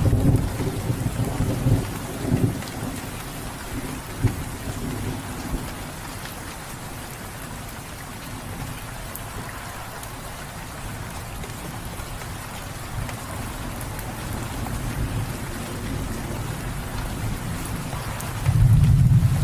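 Steady rain falling, with rolling thunder: a low rumble dying away over the first couple of seconds, and another rising near the end.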